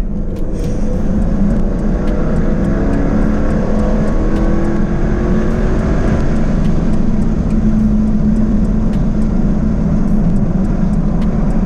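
2024 Jaguar F-Type's 5.0-litre supercharged V8 under hard acceleration, its note climbing steadily in pitch over several seconds.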